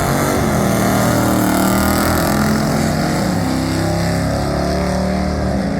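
1968 Ford F100's ported 460 big-block V8 running loud through headers, its engine speed wandering up and down and dropping near the end.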